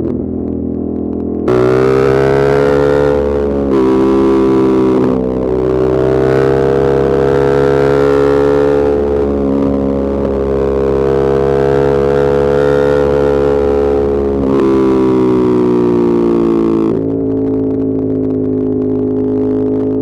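Ducati Monster 1200S's L-twin engine running under way, heard through a helmet-mounted wireless mic with its low-cut filter on. The engine note holds mostly steady, with the pitch stepping up and down a few times as the rider works the throttle and gears.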